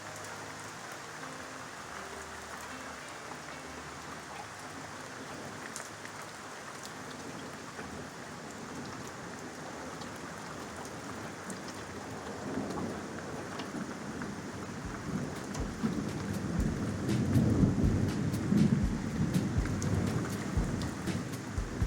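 Steady rain falling, with thunder rolling in partway through: a low rumble that builds and is loudest near the end.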